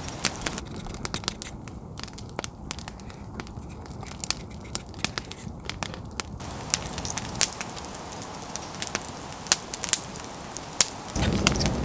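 Campfire crackling, with irregular sharp pops and snaps of burning wood. Near the end a louder, steady rushing noise comes in.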